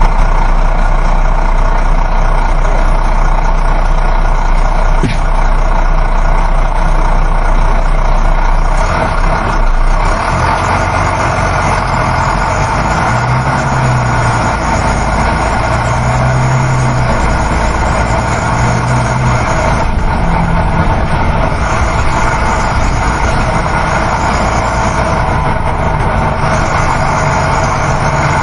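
Coach bus running on the road: a steady engine drone mixed with road and wind noise. The low engine note shifts about ten seconds in.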